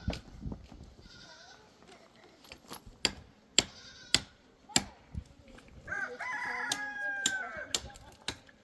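A rooster crows once, one drawn-out call of about two seconds near the end. Before it come a few sharp knocks, about four in a row, spaced just over half a second apart.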